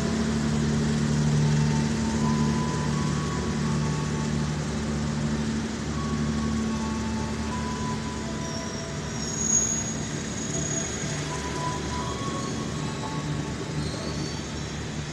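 Long-distance passenger train rolling slowly past as it departs, with a steady low drone and scattered short high squeals from the wheels. The drone eases a little as the train moves off.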